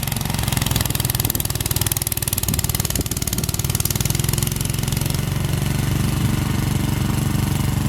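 Snowblower's small engine running steadily, with a fast even pulsing, as it clears deep snow.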